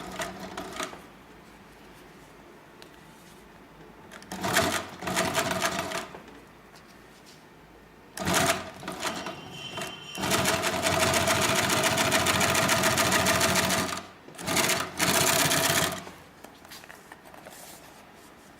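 HIGHTEX 768-273 triple-feed post-bed twin-needle upholstery sewing machine stitching in bursts: a short run about four seconds in, another starting about eight seconds in that goes into a long steady run of about four seconds, then a final short burst. Between the runs the machine stops.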